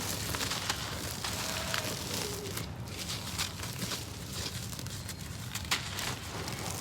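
Gritty dry cement crumbling and sifting: a steady stream of fine crackles and small gritty clicks.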